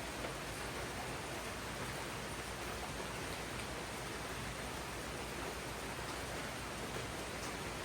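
Steady rain falling in a tropical rainforest, an even hiss with no breaks or distinct drops standing out.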